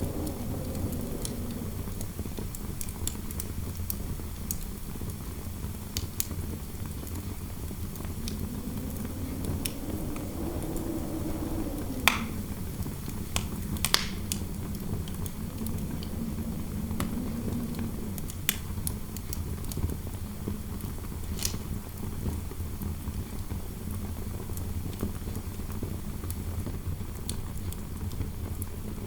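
Fireplace fire crackling, with scattered sharp pops, over a low steady indoor wind rumble whose howl swells and fades a couple of times.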